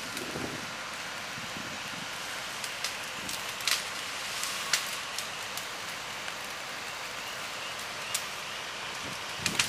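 Wind rushing steadily through the trees, with a few sharp ticks and crackles scattered through it, a couple of them louder about four seconds in.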